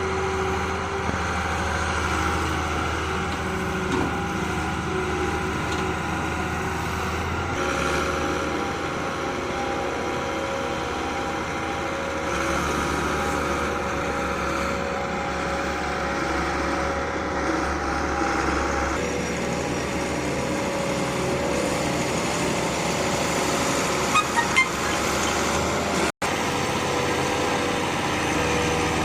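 Excavator and tractor diesel engines running steadily, the engine note shifting slightly a few times. The sound drops out for an instant near the end.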